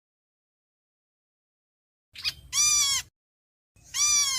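A bird's flock-gathering call, given twice: a short, nasal note rich in overtones that arches up and falls. The first comes about two seconds in with a brief lead-in note, and the second near the end, with dead silence between them.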